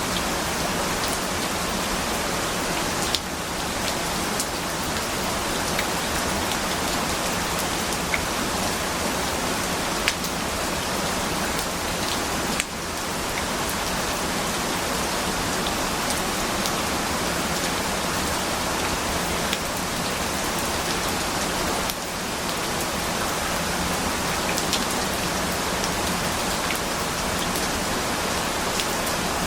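Steady rain falling, an even hiss with scattered individual drops ticking, briefly dipping in level three times about nine or ten seconds apart.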